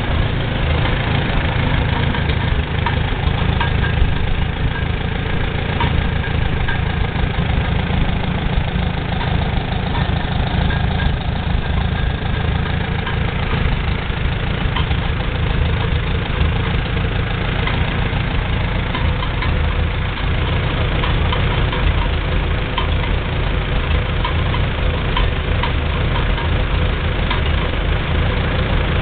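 1941 Farmall B tractor's four-cylinder engine running steadily.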